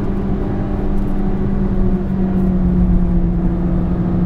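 Toyota Yaris GRMN's supercharged 1.8-litre four-cylinder engine pulling under load at fairly steady revs, its pitch edging up slightly about halfway through.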